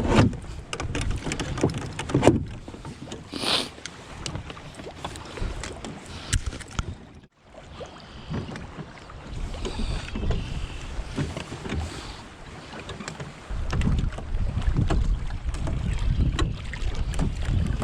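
Wind buffeting the camera microphone in gusts over water sounds from a canoe on the lake, with a few sharp knocks.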